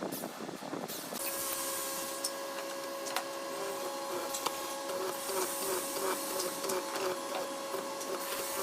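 Electric woodworking power tool starting to run about a second in, then running steadily with a high whine and a regular pulse of about two beats a second.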